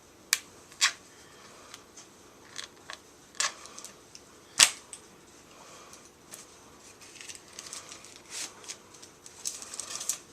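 Paper and packaging being handled during an unboxing: a string of sharp snaps and clicks, the loudest about halfway through, then a run of crinkling rustles near the end.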